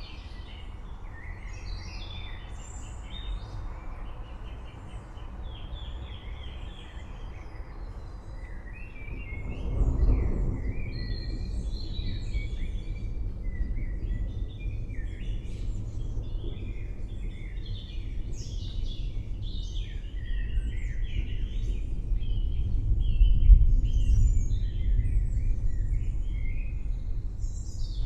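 Many forest birds chirping and calling over a steady low rumble of distant thunder, which swells about a third of the way in and again near the end.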